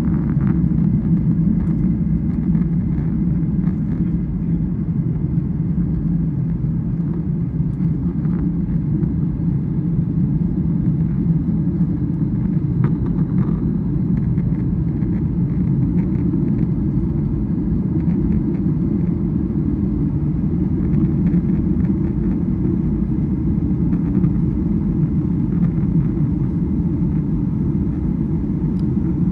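Steady low rumble of an airliner cabin in flight: jet engine and airflow noise, unchanging throughout.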